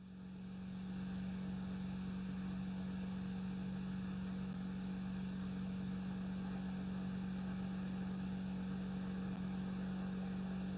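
Light aircraft's engine at takeoff power during lift-off and initial climb, heard faintly through the headset intercom as a steady low hum with a faint rushing noise, fading in over the first second or so.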